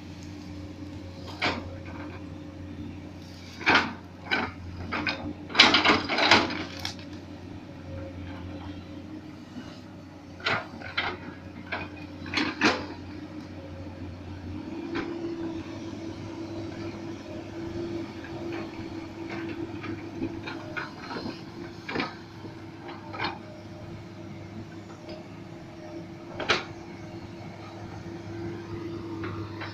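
Komatsu PC200 hydraulic excavator running steadily, with scattered sharp clanks and knocks, a quick cluster of them a few seconds in. About halfway through, the engine's hum changes tone.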